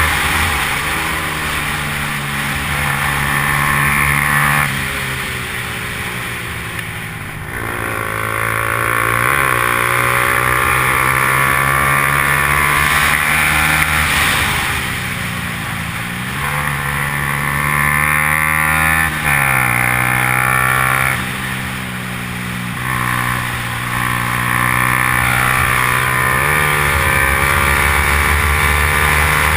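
Yamaha R15's single-cylinder four-stroke engine running hard at race pace, its pitch climbing for a few seconds and then dropping, over and over, as it goes through the gears and brakes for corners.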